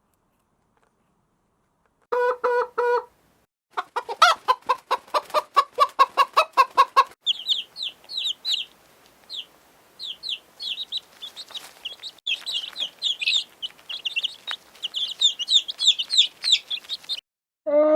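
Chickens. After about two seconds of silence, a hen clucks in quick runs. From about seven seconds in, many short, high peeping calls follow.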